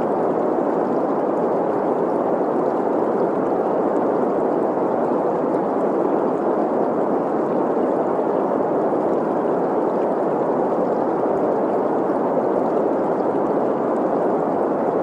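Generated green noise, a steady even hiss with the stream of running water blended in.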